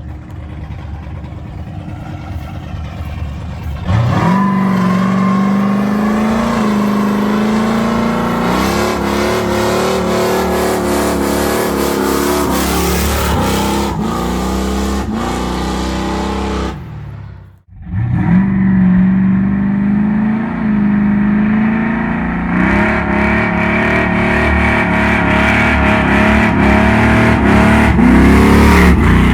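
Car engine revved hard and held at high rpm during a burnout. It runs at lower revs for about four seconds, then climbs quickly and holds. Near the middle it cuts out abruptly, then climbs again and holds high.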